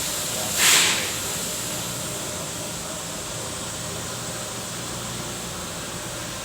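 Ship's engine-room machinery running with a steady hum, broken about half a second in by a short, loud hiss that lasts under half a second.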